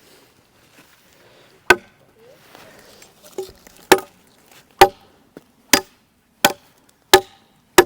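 Machete chopping into a piece of wood: a series of about seven sharp blows, one every second or less, starting a couple of seconds in.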